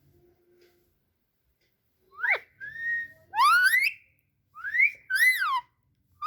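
Pet parrot whistling: about five short whistled notes starting about two seconds in, mostly rising glides and a couple that rise then fall.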